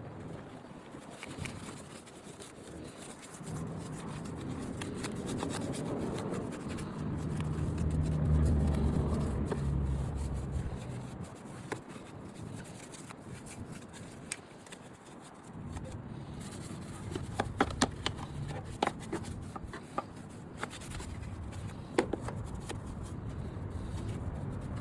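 Rubbing and scraping sounds, with a cluster of sharp clicks about two-thirds of the way through.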